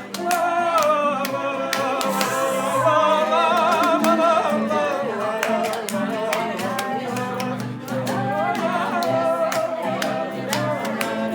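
A flamenco-style song: a voice singing long notes with heavy vibrato over instrumental accompaniment, with sharp rhythmic taps throughout.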